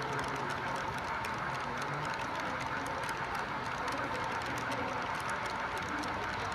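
HO scale model train running on layout track: a steady rolling noise with a thin, even whine and rapid faint clicking of wheels over the rails.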